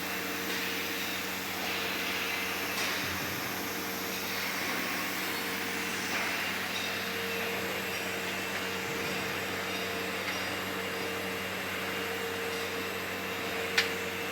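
Steady machine hum over an even mechanical noise, with one sharp click near the end.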